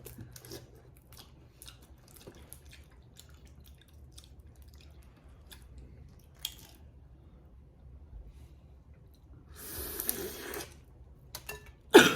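Boiled crawfish being cracked, peeled and eaten by hand: scattered small clicks and crunches of shell, with a longer hissing slurp about ten seconds in. A loud cough breaks in right at the end.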